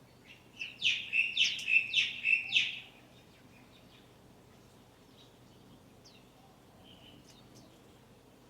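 A small songbird calling close by: a quick run of about seven loud, sharp chirps lasting a little over two seconds, followed a few seconds later by a few faint, thin calls.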